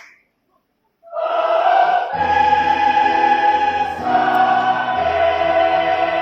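Choir singing sustained chords, entering after a short pause about a second in; deeper parts join about two seconds in.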